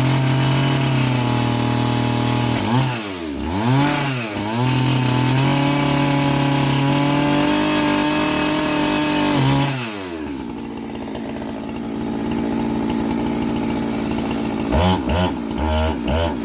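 Two-stroke chainsaw held at high revs, dipping and recovering twice around three to four seconds in. About ten seconds in it falls back to idle, then a few short throttle blips follow near the end.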